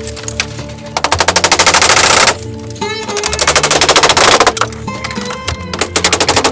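A fast, even mechanical rattle in two bursts of over a second each, over background music.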